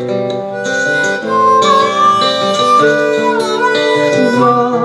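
Instrumental break in an acoustic song: strummed guitar chords under a held lead melody that bends in pitch, with no singing.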